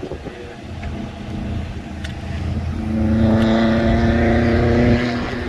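Car engine running with a low rumble, then revved about three seconds in and held at a steady high pitch for roughly two seconds before dropping back.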